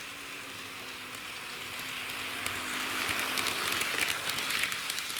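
HO gauge model diesel railcar running along the track: a rushing wheel-on-rail noise with fine clicks at the rail joints, growing louder as the train passes close, over a low steady hum in the first three seconds.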